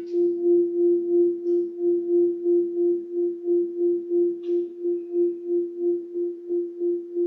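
Singing bowl ringing in one steady, sustained tone that wavers in loudness about three times a second.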